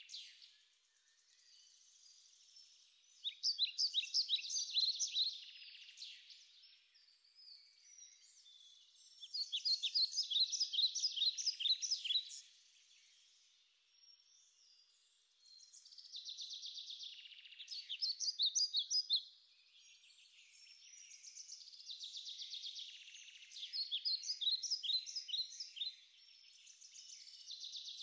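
A songbird singing the same short phrase of quick, high chirps over and over, each phrase two to three seconds long and repeated about every six seconds, over a steady high-pitched hiss.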